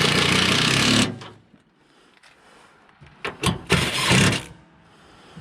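Cordless power driver running for about a second to drive a fastener, cutting off sharply, followed by a few shorter bursts of tool and handling noise.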